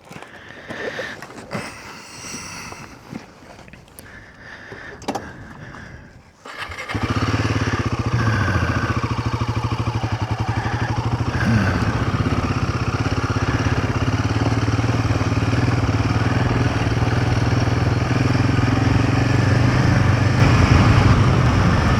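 Royal Enfield Himalayan 450's single-cylinder engine: after several seconds of quiet clicks and knocks, the engine sound comes in abruptly about a third of the way in and runs steadily as the motorcycle rides off, its pitch rising twice shortly after as it pulls away.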